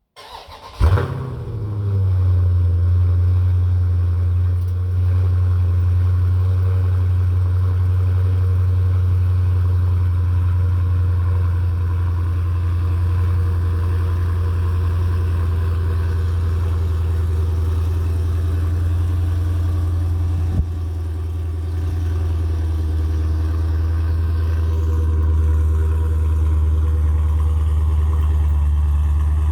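2019 Dodge Challenger Scat Pack's 392 (6.4 L) HEMI V8 on its stock exhaust, cold-started: the starter cranks briefly, the engine catches with a loud flare about a second in, then settles into a steady cold fast idle. About twenty seconds in there is a brief click, after which it runs slightly quieter.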